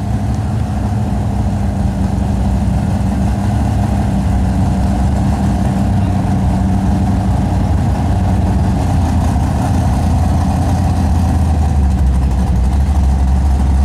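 Two drag cars idling side by side at the starting line, a Dodge Magnum SRT-8's 6.1-litre Hemi V8 and another race car, with a steady low engine note as they stage. The lowest part of the note grows louder over the last few seconds.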